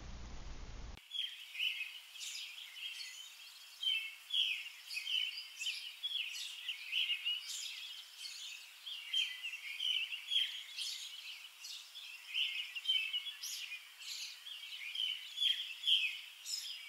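Small birds singing: many short, high chirps in quick succession, going on without a break.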